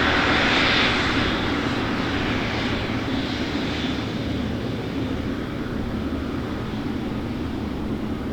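Aircraft engine noise, a steady rushing sound that eases off over the first few seconds and then holds at a lower level.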